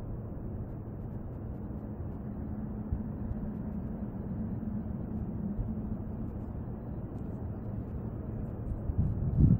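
Steady low outdoor background rumble picked up by a compact camera's microphone, with a faint hum in the middle and a short low thump near the end.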